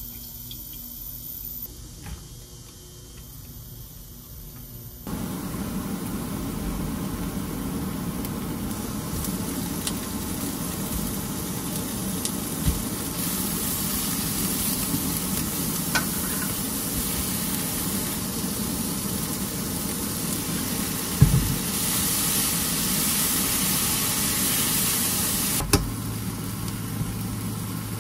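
Shrimp, chopped leek and onion sizzling in hot oil in a nonstick frying pan. The sizzle starts suddenly about five seconds in and goes on steadily while a spatula stirs, with a few sharp knocks against the pan. A low steady hum comes in near the end.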